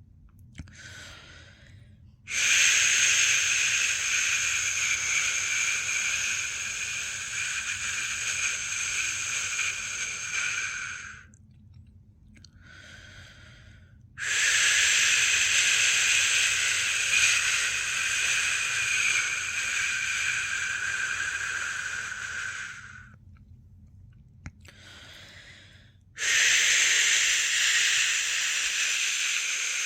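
A person's long drawn-out 'shhh' shushing sound for soothing a newborn to sleep, repeated three times, each lasting about eight or nine seconds, with short pauses and faint breaths in between.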